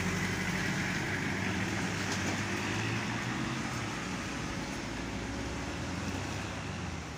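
A motor vehicle engine running steadily, with a low hum under road and traffic noise, growing a little quieter near the end.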